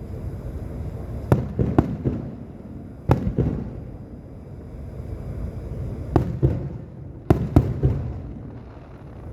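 Fireworks display bursting: about eight sharp bangs at uneven intervals, several in quick pairs, over a continuous low rumble of booms.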